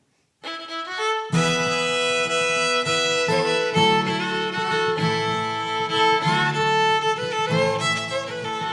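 Instrumental song intro led by fiddle, with guitar underneath, starting after a brief silence and filling out about a second in.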